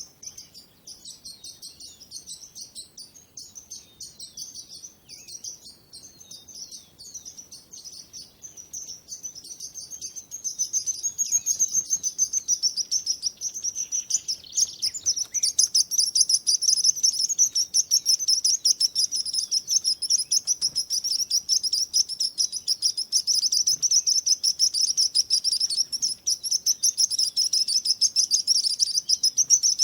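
Many small songbirds chirping and twittering together in a dense, continuous high-pitched chorus. It is quieter at first and grows louder and busier about ten seconds in.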